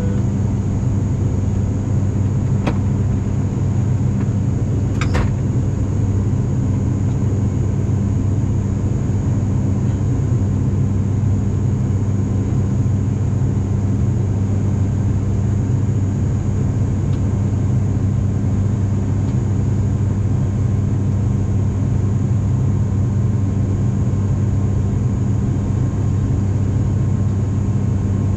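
Steady drone of an ATR 42-500's twin turboprop engines heard inside the passenger cabin in flight: a deep, even propeller hum under a constant high hiss. A faint tick about three seconds in and another about five seconds in.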